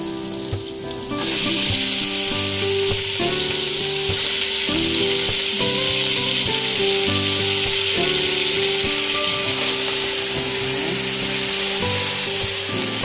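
Raw chicken pieces frying in hot oil with sautéed onion and garlic in a pot. A loud, steady sizzle starts suddenly about a second in as the chicken meets the oil.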